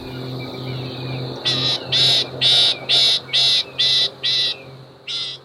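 Loggerhead shrike calling: a run of about eight rasping notes, about two a second, starting about one and a half seconds in. A steady low hum and a thin high tone run underneath.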